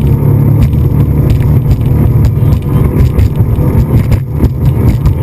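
Motorboat engine running steadily at speed, a loud low hum.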